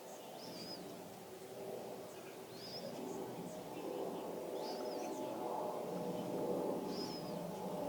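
A bird giving a short, arched chirp about every two seconds, four times, over a low background murmur that grows louder.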